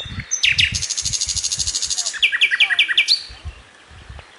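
Birds singing: a fast, high trill, then a quick run of about six descending notes, dying away after about three seconds.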